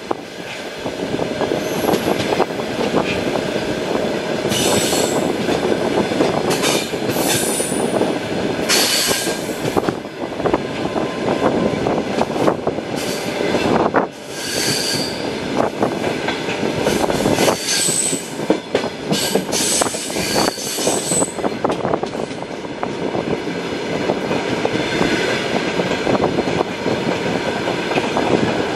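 Passenger train running on the rails, heard from inside a carriage: a steady rumble of wheels on track, with several short high-pitched wheel squeals along the way.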